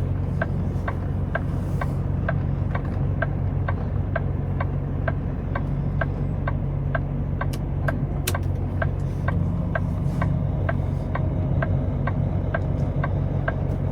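Blinkers clicking steadily, about three ticks a second, inside a semi truck's cab over the steady hum of its idling diesel engine.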